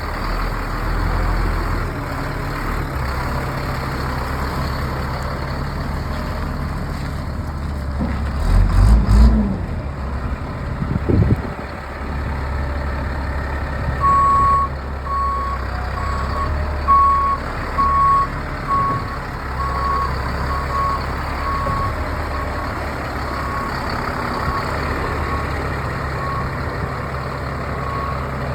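Diesel engine of a 1999 Freightliner FL70 dump truck running steadily, with a brief rise in revs about eight seconds in and a short thump about three seconds later. From about halfway through, a backup alarm beeps about once a second and gradually fades.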